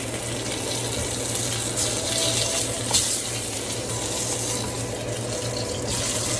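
Sausage patties sizzling in a frying pan: a steady hiss with some crackle, over a low steady hum.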